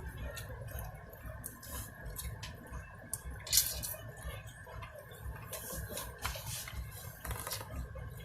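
Close-up eating sounds of fried chicken: wet chewing and smacking with scattered crunchy crackles, and one louder crunch about three and a half seconds in, over a steady low rumble.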